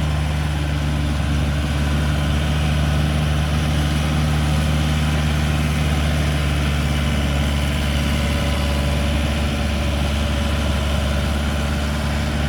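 72 hp Yanmar tractor's diesel engine running steadily while driving a 2.2 m rotavator, with the churning noise of the tiller over the engine note.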